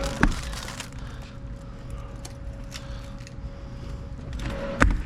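Small mechanical clicks and rattles of handling, with a sharp knock just after the start and a louder one near the end, over a steady faint hum.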